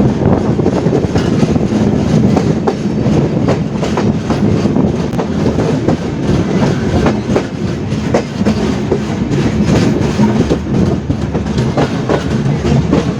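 Passenger train running at speed: a steady rumble of the coaches with the wheels clattering over rail joints, many irregular clicks throughout.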